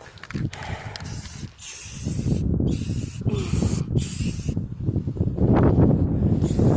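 Aerosol spray paint can spraying in a series of short hissing bursts with brief pauses between, over a low rumble that grows louder after about two seconds.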